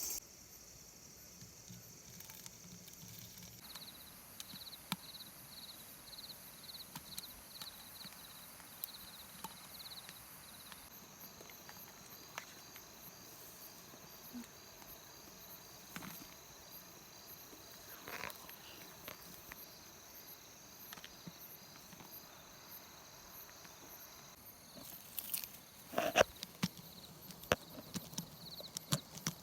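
Steady high insect buzzing and chirping. For several seconds a chirp pulses at about two per second, over scattered small clicks and taps, and a cluster of louder knocks and clicks comes in the last few seconds.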